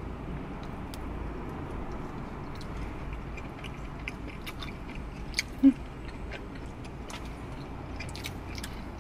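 Close mouth sounds of people chewing food, with small wet clicks and smacks, over a steady low hum. A brief, louder hum sounds just past halfway.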